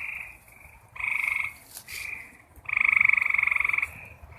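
Frogs calling at night in short pulsed trills, one after another at different loudness, the longest and loudest lasting about a second near the end.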